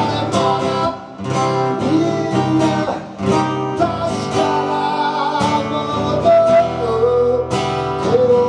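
Acoustic guitar strummed to accompany a slow song, with a sung line holding and wavering in pitch in the second half.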